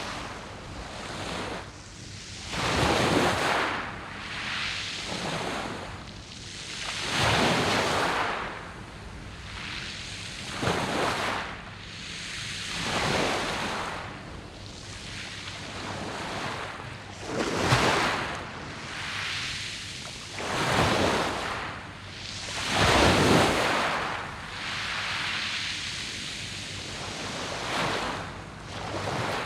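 Waves breaking on a beach of smooth round pebbles, each surge swelling and then falling away, about every four or five seconds.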